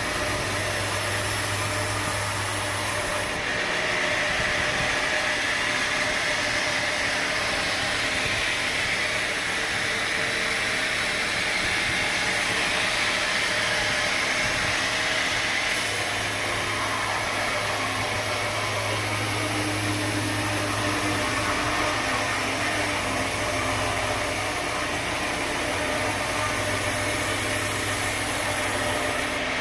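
Sawmill machinery running steadily: a continuous mechanical noise with a low motor hum that drops away about three seconds in and comes back about halfway through.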